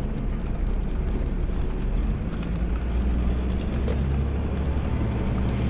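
Automated side-load garbage truck's engine running with a steady low rumble that grows stronger about halfway through, with a few light clicks and rattles.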